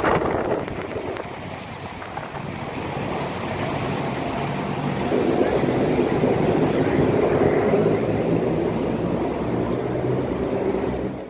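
Airliner engines running, a steady rushing noise with a low hum that grows louder from about four seconds in.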